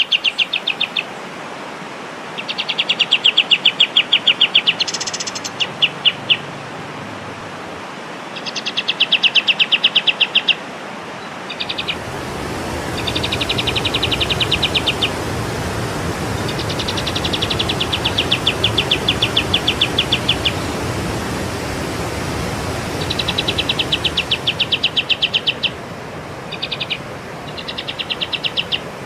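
A songbird sings rapid, buzzy trills of fast repeated notes in phrases of one to three seconds, with short pauses between them. This is a masteran recording for teaching captive songbirds. Under it is a steady rushing background noise that grows louder in the middle and fades again near the end.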